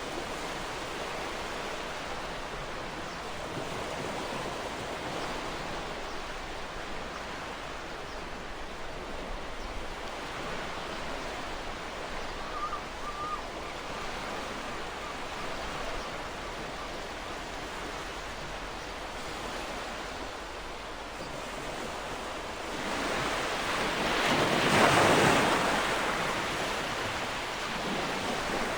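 Ocean surf: a steady wash of waves on the shore, with one louder wave swelling, breaking and fading over a few seconds near the end.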